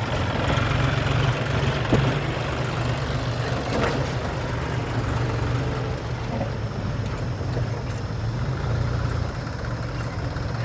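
Heavy diesel engine running steadily at a low, even speed, with a couple of brief knocks about two and four seconds in.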